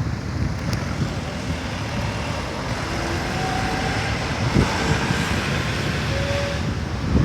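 Lotus sports car driving, a steady run of engine and road noise that swells slightly.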